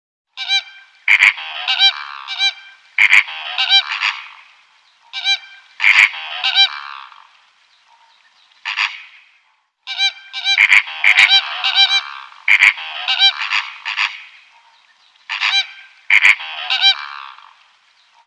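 Loud, harsh honking calls from a bird, repeated in quick runs with short pauses between them.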